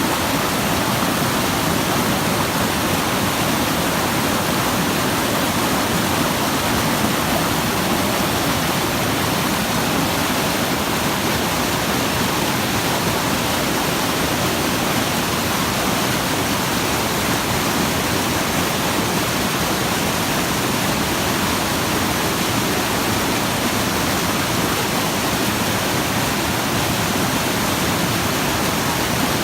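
Rushing water of a mountain stream, a loud, even, unbroken noise that starts abruptly.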